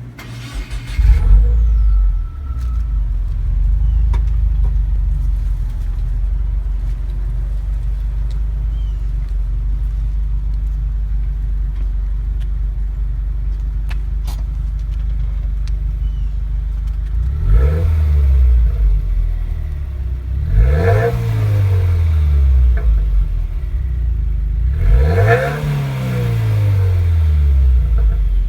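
2016 Subaru WRX's turbocharged flat-four on its stock exhaust starting up with a brief flare, settling to a steady idle, then revved three times in the second half, each rev rising and falling back.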